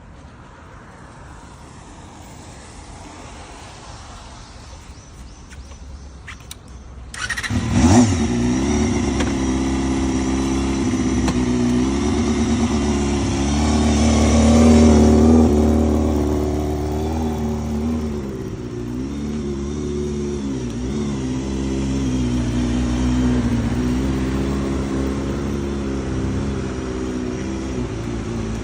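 Honda JADE motorcycle's 250 cc inline-four engine starting up about seven seconds in, then running at idle with the throttle opened for a longer rev about halfway through and a few smaller blips after that.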